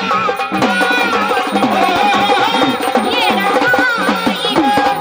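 Gondhal devotional folk music: sambal drums played in a fast, continuous rhythm under a sustained organ melody.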